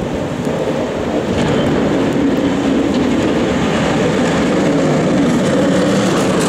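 Snowplow truck going by: a steady heavy rumble that grows louder about a second in.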